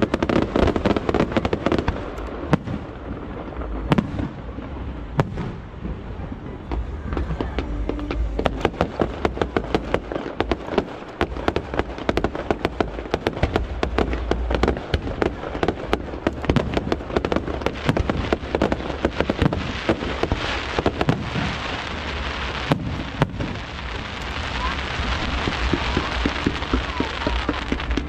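Aerial fireworks bursting in rapid, overlapping succession, a dense barrage of bangs and crackles. Near the end a hissing, crackling shower takes over.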